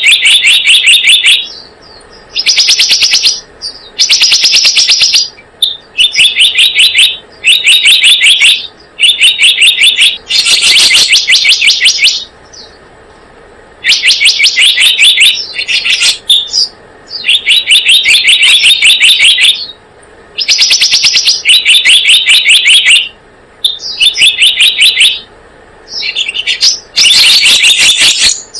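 Selendang biru bird calls used as a lure: a loud, rapid chattering trill repeated in bursts of about one to two seconds with short pauses between them, over a dozen times.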